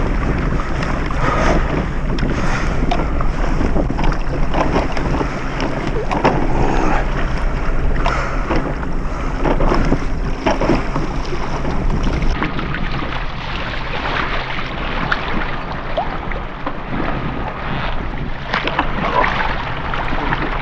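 Wind buffeting the microphone over water lapping against a kayak hull, with scattered knocks and splashes.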